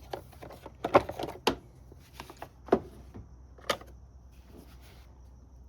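A few sharp plastic clicks and knocks, about four spread over several seconds, as a new air filter is fitted into the car's plastic air cleaner box, over a faint steady hum.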